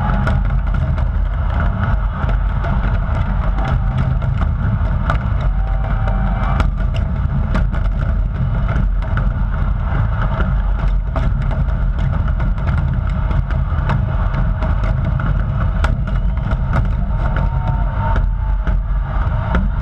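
Dense, continuous aerial fireworks barrage: a heavy rolling rumble of many shell bursts with sharp cracks going off throughout.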